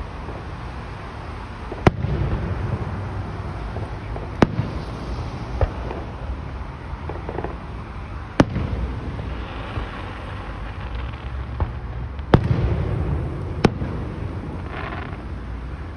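Fireworks shells bursting overhead: five sharp bangs a few seconds apart, each followed by a low rolling rumble, with a few smaller pops between them.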